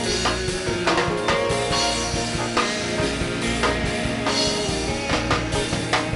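Worship band music: a drum kit keeping a steady beat under bass and sustained keyboard chords.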